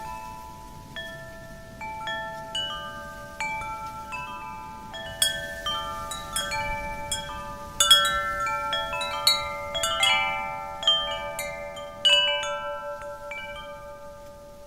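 Wind chime jingling in the wind: its rods are struck irregularly and ring on, overlapping in a shimmer of tones that grows busier and louder in the middle and thins out near the end. A low, soft rush of real wind lies underneath.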